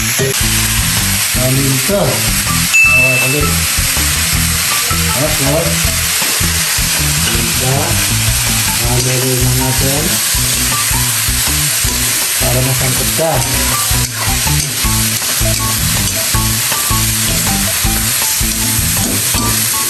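Chicken pieces sizzling as they fry in oil in a wok, with a metal spatula scraping and turning them against the pan.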